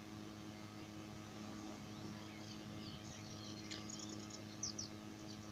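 Faint songbirds chirping in short high notes and brief trills, starting a couple of seconds in, over a steady low electrical hum.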